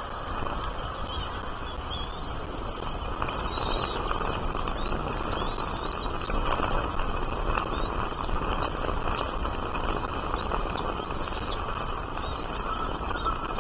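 A small bird chirping: a series of short, high chirps, roughly one a second, over a steady background hiss.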